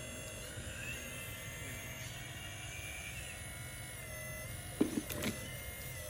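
Heavy machinery running steadily with a low rumble and a whine that rises and falls, broken by two or three sharp clanks near the end.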